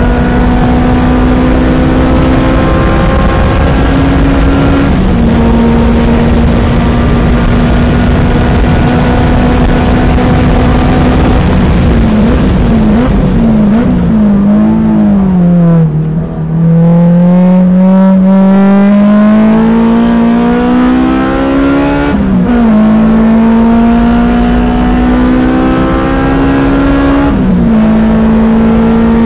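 A car's engine heard from the car itself during a lap at a track day, over steady wind and road noise. It starts at high, steady revs on a straight. About halfway through the pitch falls in uneven steps as the car brakes and downshifts for a corner. It then climbs steadily under acceleration, dropping sharply twice near the end at the upshifts.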